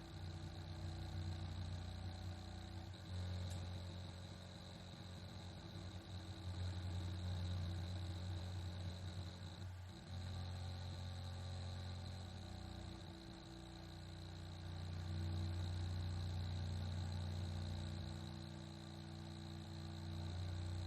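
Seagate BarraCuda 8 TB (ST8000DM004) hard drive running with a steady low hum and a faint high whine, swelling and fading every few seconds and dropping out briefly about halfway. This abnormal noise stopped once the owner swapped the SATA adapter board for another maker's, which puts the cause in the adapter.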